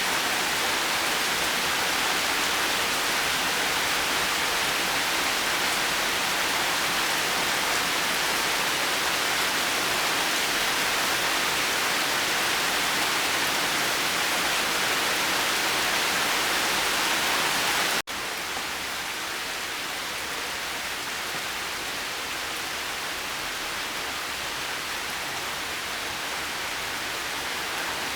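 Steady rain falling, a dense even hiss. About 18 seconds in it breaks off for an instant and resumes a little quieter and softer.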